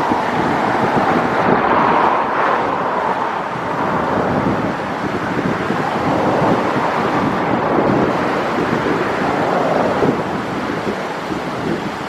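Loud wind buffeting the camera's microphone, swelling and easing, over a steady rush of sea surf.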